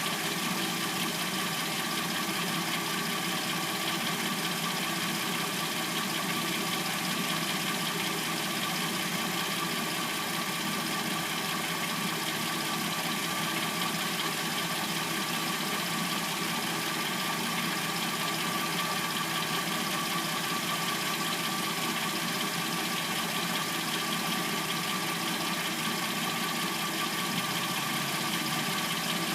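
Replacement engine in a 2006–09 Hyundai Sonata idling steadily once warmed up, with the light clacking that the owner takes for the timing chain.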